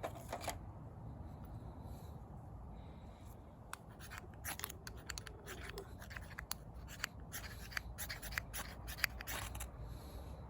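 Wood fire crackling: irregular sharp pops and snaps, sparse at first and coming thick and fast from about four seconds in, over a low steady rumble.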